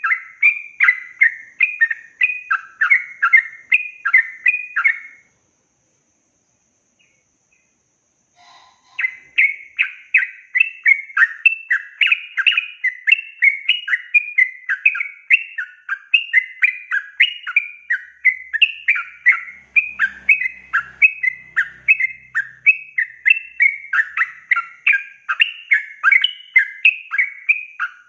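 Yellow-vented bulbul (trucukan) singing a long, rapid run of chattering, whistled notes, about three a second. The song breaks off about five seconds in and starts again about four seconds later.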